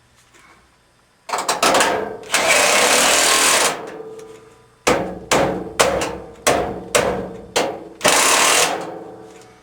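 Power screwdriver driving a screw into the Maytag dryer's sheet-metal cabinet, with the panel ringing. It runs in one long pull about a second in, then in a series of short trigger bursts about half a second to a second apart.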